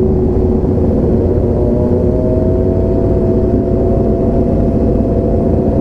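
Motorcycle engine running at a steady cruise under heavy wind rumble on a helmet-mounted camera microphone; its pitch climbs slightly about two seconds in.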